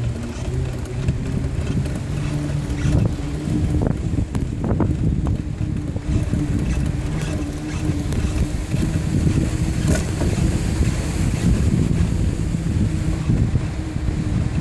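Ride noise from a moving bicycle: a steady low rumble of wind on the microphone and tyres on the path, with a few clicks and rattles from the bike.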